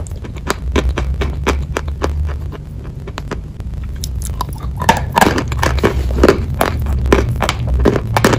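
Close-miked mouth sounds of eating a dry, crumbly white chalk-like chunk: small crisp crackles at first, then, about five seconds in, a louder crunching bite and chewing.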